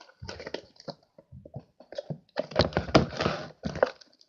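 Homemade slime being stirred and handled in a bowl: a run of irregular knocks, clacks and scrapes against the bowl, busiest in the middle.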